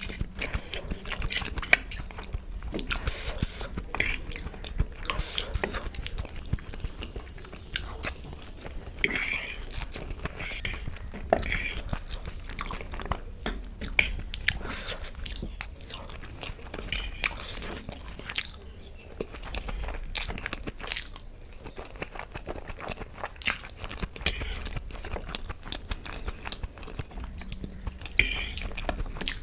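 Close-miked eating: irregular chewing with crisp crunchy bites and small mouth clicks.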